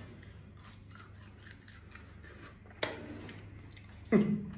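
Clicks and scrapes of a steamed giant isopod's hard shell being handled and cut into, faint at first, then a sharp click nearly three seconds in and a louder knock about four seconds in.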